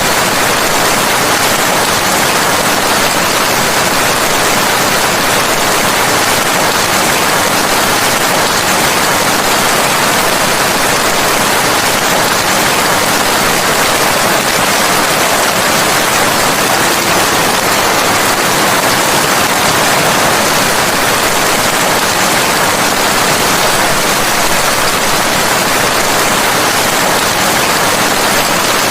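Steady rain: an even, unbroken hiss with no distinct drops, thunder or breaks.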